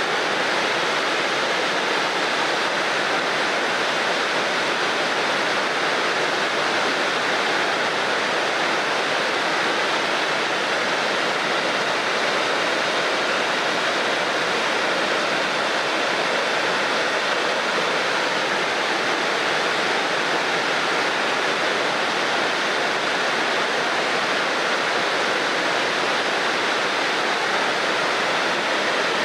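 Shirahige Falls, a waterfall in Hokkaido, pouring steadily: a continuous, even rush of falling water.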